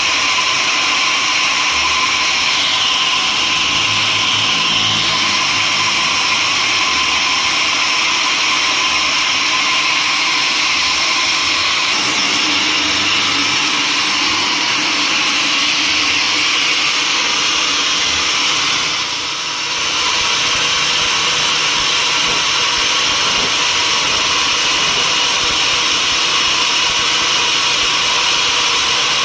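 Sawmill saw running steadily: a continuous whine over a hiss, dipping briefly about two-thirds of the way through.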